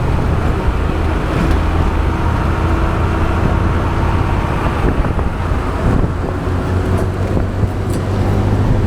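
Motorbike engine running steadily while riding, with wind and road noise on the action camera's microphone.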